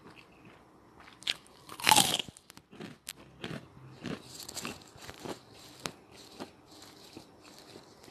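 A loud crunching bite into crispy, freshly fried tempeh about two seconds in, followed by crunchy chewing, with crunches about every half second that grow fainter toward the end.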